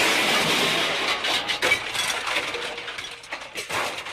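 Car crash with breaking glass, its noise fading over about four seconds into scattered clinks and rattles of falling debris.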